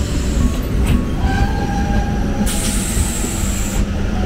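Passenger train pulling into a platform, its coaches rolling past with a heavy rumble and thin squeals from the wheels and brakes. A loud hiss starts about two and a half seconds in and lasts just over a second.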